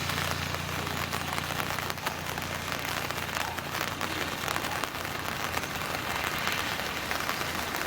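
Steady rain falling, an even hiss with many individual drops ticking close by. A low hum underneath fades out after about three seconds.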